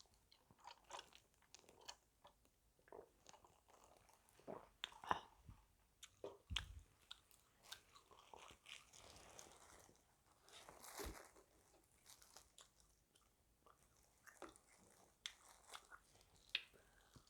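A person chewing and crunching crispy fried food close to the microphone: irregular wet crackles and crunches with short pauses between bites.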